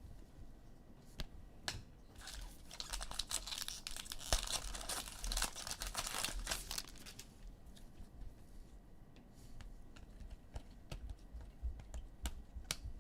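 Foil trading-card pack wrapper torn open and crinkled for several seconds, starting about two seconds in, with scattered light clicks of cards being handled before and after.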